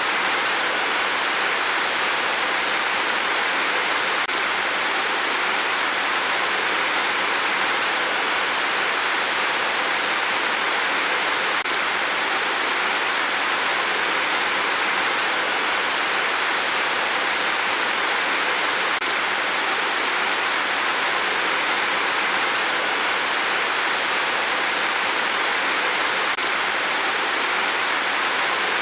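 Steady rain, an even dense hiss with no single drops or gusts standing out.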